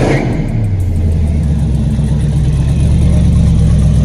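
Car engine coming down off a rev in the first second, then running at a loud, steady idle.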